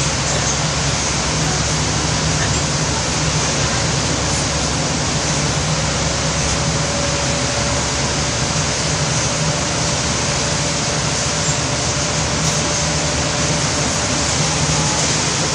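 Heavy rain falling in a steady, unbroken hiss, with a low vehicle engine hum underneath.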